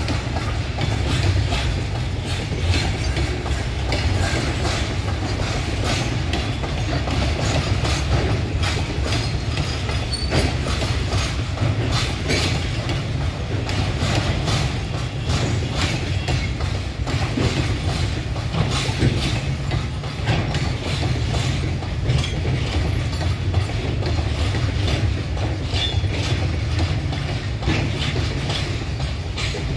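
Flatbed freight wagons rolling past, their wheels clacking over rail joints, with a steady low rumble and frequent short metallic knocks.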